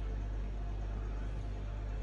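Steady low hum under a faint even background noise, with no distinct events.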